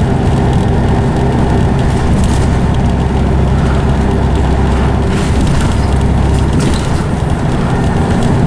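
Scania OmniCity bus running under way, heard from on board: the engine drone with the loud whine of its ZF automatic gearbox, steady, with the low drone easing off slightly near the end.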